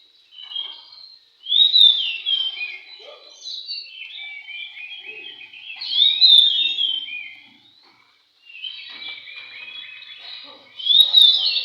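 Oriental magpie-robins singing, with loud bursts of quick, falling whistled notes about three times and quieter overlapping song between, pausing briefly about eight seconds in.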